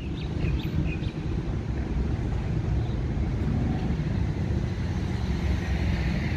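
Electric suburban train approaching the station: a low, steady rumble, with wind noise on the microphone. A few short high chirps come within the first second.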